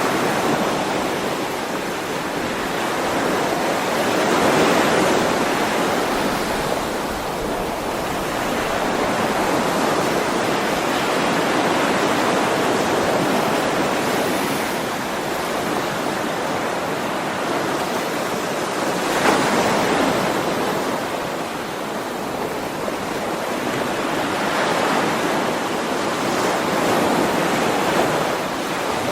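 Ocean waves breaking on a shore, a continuous wash of surf that swells and eases, with a few louder breakers, one sharp about 19 seconds in.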